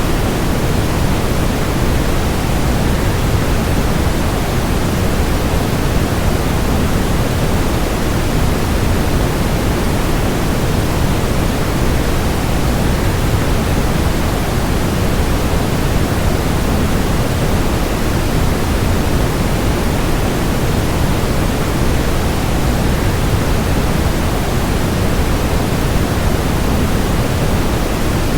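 Waterfall rushing in a steady, unchanging roar of noise, heaviest in the low range.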